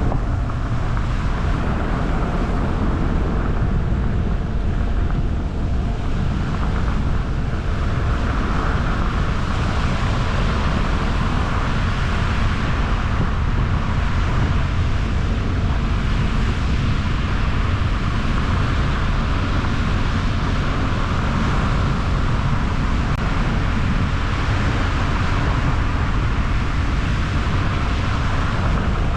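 A car driving along a road: a steady low rumble of tyres and engine, with a tyre hiss that swells and fades.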